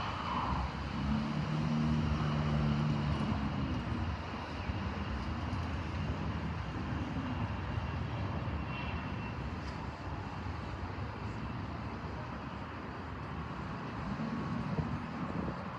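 Fixed-wing aircraft engine running, a continuous wash of engine noise with a low hum that swells about a second in and again near the end.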